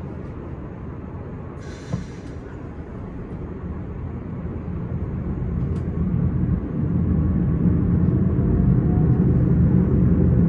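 S-Bahn train running on the rails: a steady low rumble that grows louder from about halfway through, with a short hiss about two seconds in.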